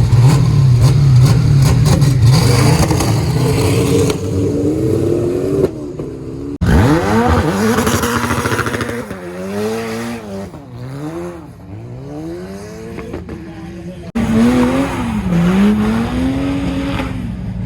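High-performance car engines revving in several short cut-together clips. A steady low running note rises at first. After a sharp cut, the revs climb, then blip up and down repeatedly, and after a last cut they rise and fall again.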